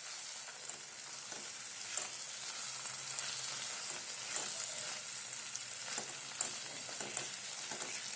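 Mashed vegetables and tomato-masala sizzling in oil in a kadhai while a wooden spatula stirs and scrapes through them: a steady frying hiss with soft, irregular scraping strokes.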